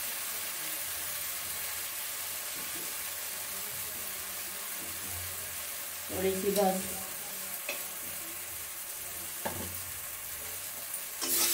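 Onion-tomato masala frying with a steady sizzle in a kadhai, with a few knocks of the metal spatula against the pan as it is stirred. The sizzle grows much louder near the end.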